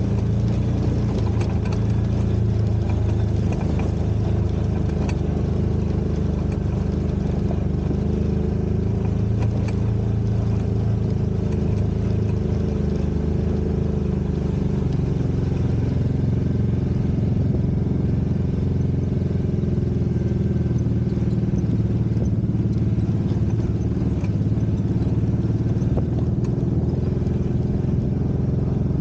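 Off-road vehicle engine running steadily under way, its pitch drifting slightly up and down, with light knocks now and then.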